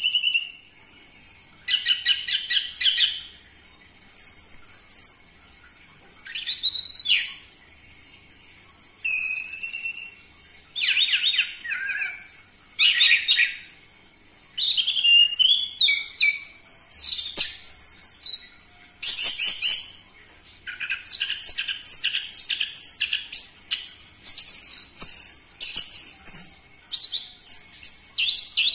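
Orange-headed thrush (anis merah) singing: a run of fast, varied high whistled and trilled phrases, each a second or two long with short pauses between, coming more thickly in the second half.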